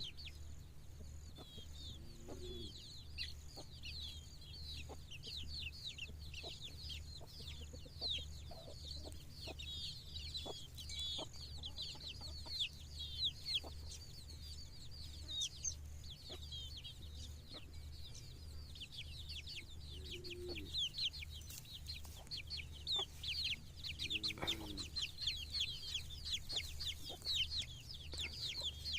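Desi hen clucking softly a few times, three brief low clucks spread through, over dense, rapid high-pitched chirping that goes on almost without pause.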